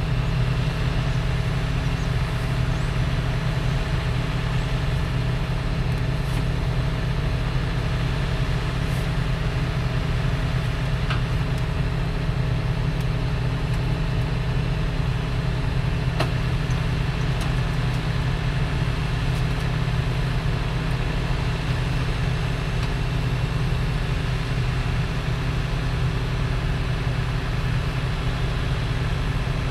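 Heavy diesel truck engine running steadily at a constant speed.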